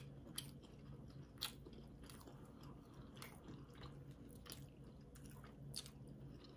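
Faint chewing and mouth sounds of people eating: soft, irregular clicks and crunches over a low steady hum.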